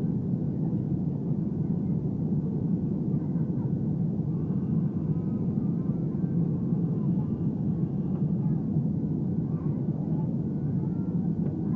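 Airbus A320 cabin noise in flight: a steady, even rumble of engines and airflow with no changes.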